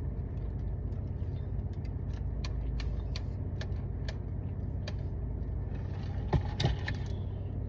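Eating sounds: scattered clicks and small knocks from chewing and handling food, a couple of louder knocks about six and a half seconds in, over a steady low hum.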